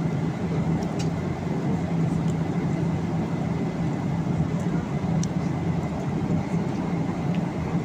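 Steady airliner cabin noise in flight: the even rush of airflow and engines with a constant low hum, and a couple of faint clicks.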